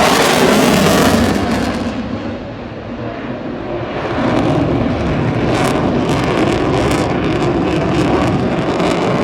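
Eurofighter Typhoon's twin EJ200 jet engines roaring through a display pass. The noise is loud at first, eases about two seconds in, and builds again from about four seconds in.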